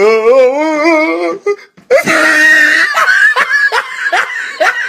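A person laughing hard: a long wavering high-pitched squeal of laughter, then after a short break a loud shriek and a run of quick laugh bursts, about three or four a second.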